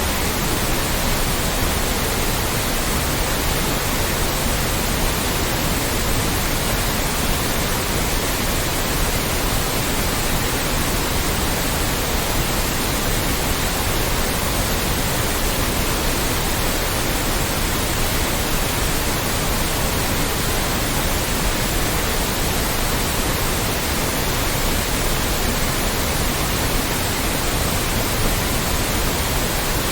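Loud, steady white noise: an even, unchanging hiss spread across all pitches.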